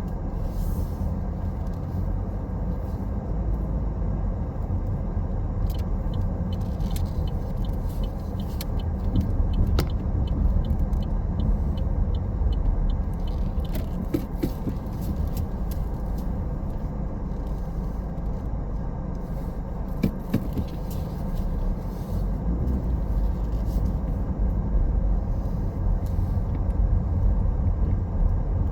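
Car driving at a steady pace: a constant low rumble of road and engine noise. A run of faint, regular ticks comes through for several seconds about a quarter of the way in.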